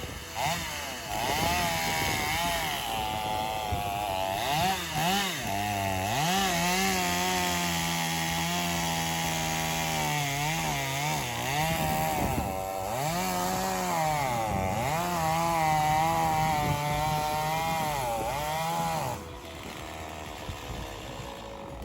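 Chainsaw cutting a tree, its engine revving up and dropping again and again as it works through the wood. It stops a few seconds before the end.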